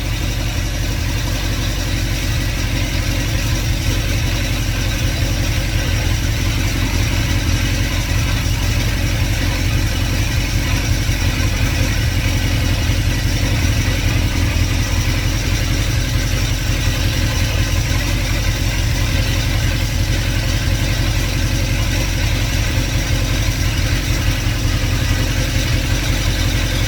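2110cc air-cooled VW flat-four engine with a high-flow fan shroud, running steadily at idle on an engine stand, warm rather than a cold start, and running smoothly.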